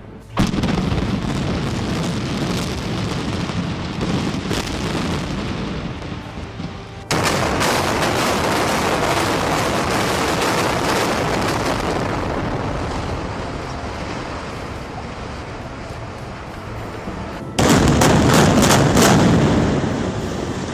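Explosive demolition charges going off and the rumble of a building collapsing. The loud, dense noise jumps up suddenly about half a second in, again about seven seconds in, and once more near the end.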